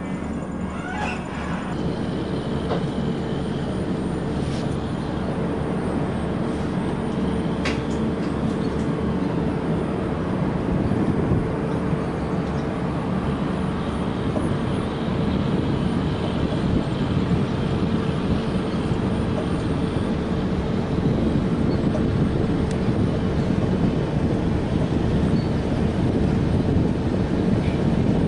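Passenger express train running on the rails: a steady rumble of wheels and coaches with a steady hum through it, slowly getting louder.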